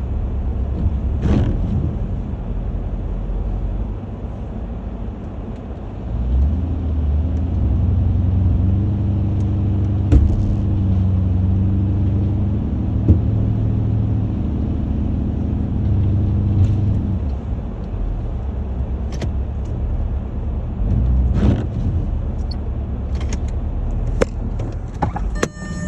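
Porsche Cayenne engine running steadily, then working harder under load for about ten seconds from roughly a quarter of the way in, as it tows an ice-laden fallen tree on a kinetic recovery rope. A few sharp cracks sound along the way, with a limb of the tree breaking off during the pull.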